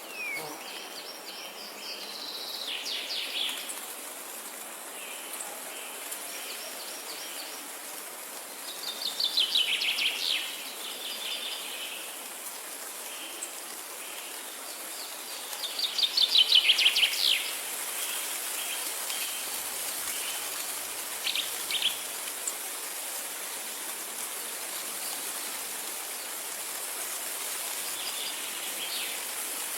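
Songbirds singing in repeated quick trilled phrases, two louder ones about a third of the way in and just past halfway, over a steady high hiss.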